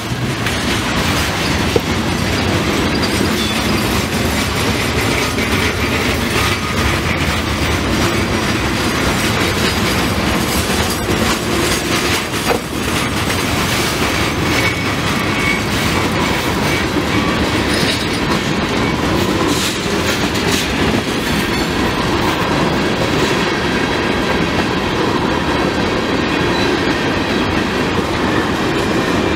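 A train's cars rolling past at close range in a steady, loud run of rail noise, with steel wheels clicking over rail joints and a faint wheel squeal now and then.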